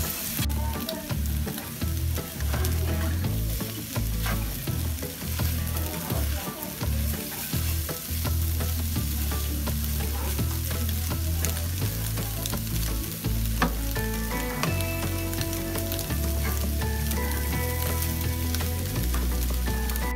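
Eggs with chopped nopales and onion frying in a nonstick pan, sizzling steadily as a spatula stirs and scrapes through them, over a low rumble.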